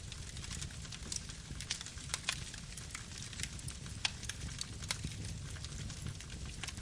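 Campfire burning: wood crackling with irregular sharp pops over a low, steady rumble of the flames.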